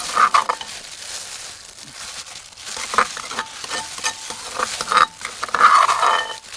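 Irregular clatter and rustling of hands and utensils working with food, with several sharp knocks, the loudest a cluster about five to six seconds in.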